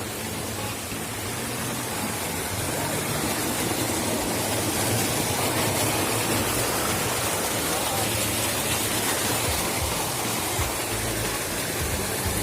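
Steady rush of falling water from a waterfall, a little louder from about two seconds in.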